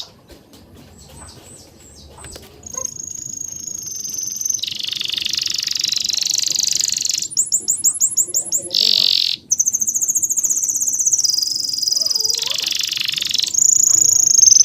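Birds chirping and trilling in high-pitched stretches that start and stop abruptly. A run of rapid repeated notes comes about halfway through, after a quieter opening of a couple of seconds.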